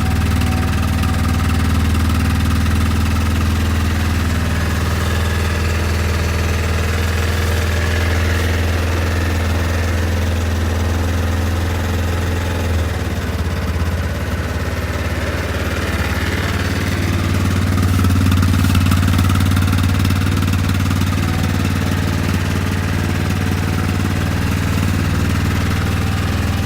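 2004 Yamaha Kodiak 450 ATV's single-cylinder four-stroke engine idling steadily just after a cold start. The idle note shifts slightly about halfway through.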